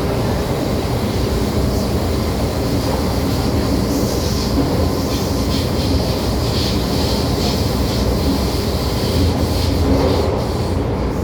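MTR M-train rolling along the track, a steady rumble of wheels on rail, with a higher hiss of wheel noise rising through the middle.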